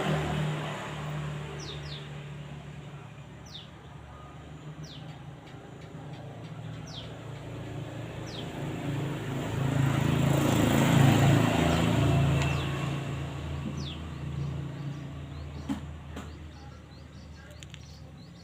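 Motor vehicles pass on a road. Their engine noise is loud at the start, eases off, then swells to its loudest just past halfway and fades. Over this a bird repeats short, high, falling chirps every second or two.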